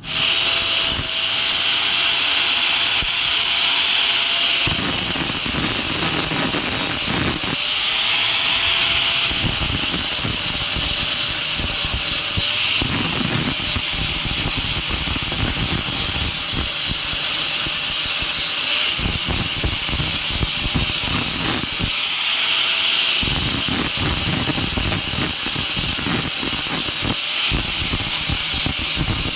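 Angle grinder running steadily and grinding metal on the tongs in repeated passes. Its motor tone dips and drops out each time the disc bites, every few seconds.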